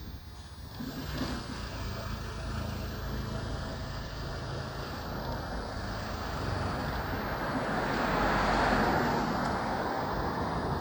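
Motorbike engine running at riding speed, with road and wind noise. Traffic noise swells to its loudest about eight seconds in.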